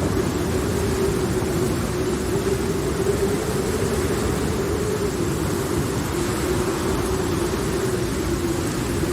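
Steady low rumble and hiss of a thunderstorm ambience, with no distinct thunderclaps, under a faint constant hum.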